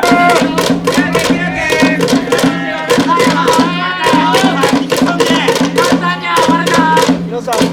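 Cheering music with a steady drum beat of about three to four strokes a second under held instrument notes, with voices singing or chanting along.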